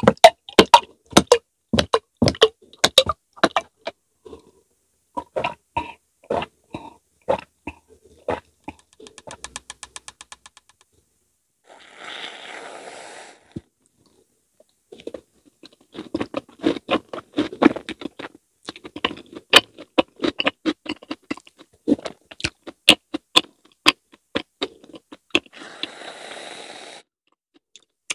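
Close-miked eating sounds: sticky, wet mouth clicks and chewing of glutinous rice mochi with fruit. Twice, about halfway through and near the end, an aerosol can of whipped cream sprays for about a second and a half.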